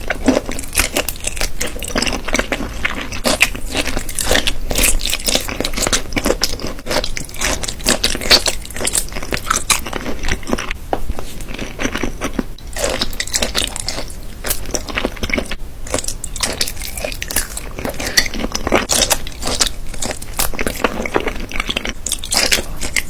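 Close-miked eating of a marinated raw shrimp and salmon roe rice bowl: continuous wet chewing and biting, full of small sharp clicks and crackles.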